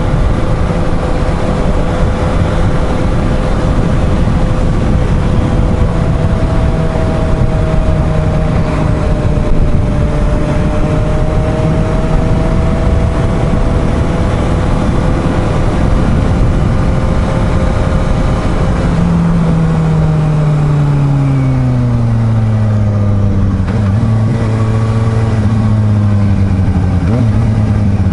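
Suzuki GSR750's inline-four engine running while riding at a steady speed under a constant rush of wind. A little past halfway the engine note drops as the bike slows, then holds at a lower pitch.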